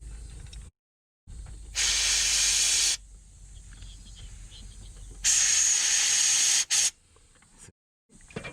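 Two bursts of pressurised spray hissing, the first about a second long and the second about a second and a half, with quieter handling noise between them.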